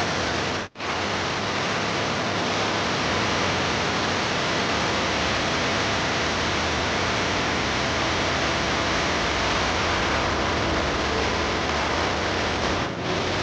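Steady, loud rush of falling water from the Rain Vortex indoor waterfall. It cuts out for an instant just under a second in.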